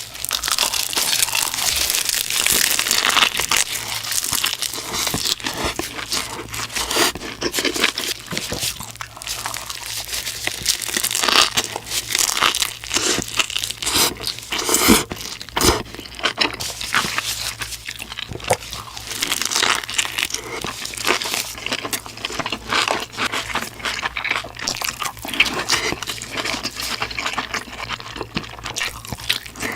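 Close-miked eating: crunchy bites and chewing, a dense run of crisp crackling strokes.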